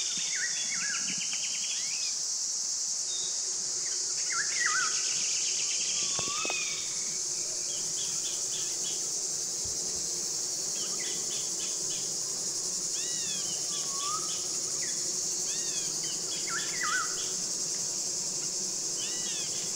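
A steady, high-pitched chorus of insects, with birds chirping and trilling on and off. Underneath is a faint low hum from honeybees clustered at the hive entrances.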